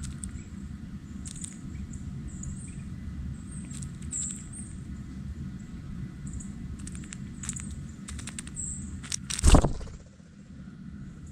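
Short, high bird chirps repeating through a steady low background rumble, with scattered sharp taps. About nine and a half seconds in there is one loud thump.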